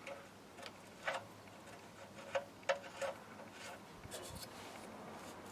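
A few faint, sharp taps and clicks at irregular intervals, about five in all.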